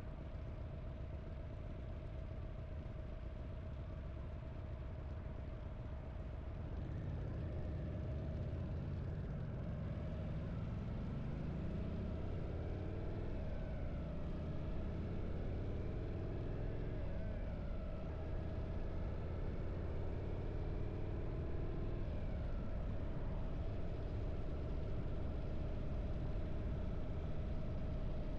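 Harley-Davidson V-twin motorcycle engine under way. It grows louder, then rises in pitch and drops back three times as the bike pulls through the gears, with a steady hum beneath.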